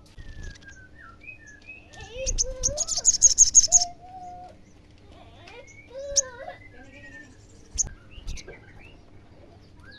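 Olive-backed sunbird calling: a fast, high chattering trill of 'cer-cer' notes from about two to four seconds in, then a few sharp single chips. Lower, sliding calls run beneath.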